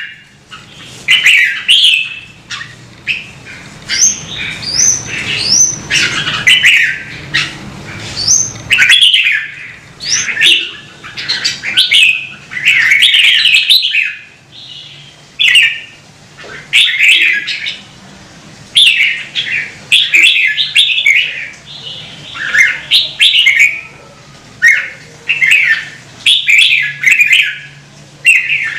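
Red-whiskered bulbul singing: short, loud warbled phrases repeated every second or two, with a few quick rising whistles among them.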